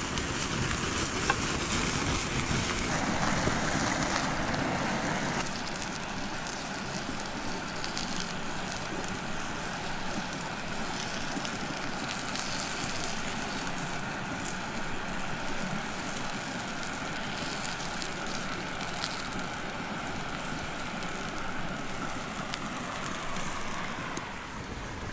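Food sizzling and crackling in a hot pan, a steady hiss with many small pops, heavier for the first five seconds or so and a little lighter after.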